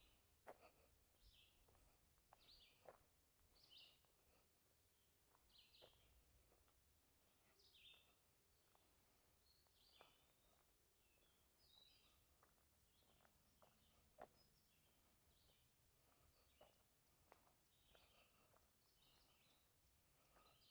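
Faint bird calls: short high chirps repeated about once a second, with a few scattered sharp clicks.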